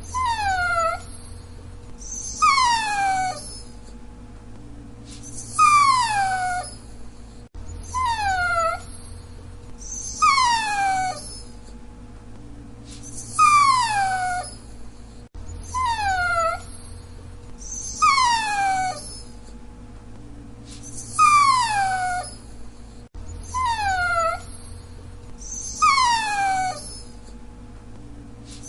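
Dachshund whining: short, high whimpers, each sliding down in pitch, repeated about once every two and a half seconds.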